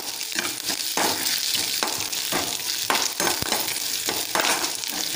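Whole garlic cloves and a piece of ginger sizzling in a little oil in a kadai, being fried until browned, with a spatula scraping across the pan about twice a second.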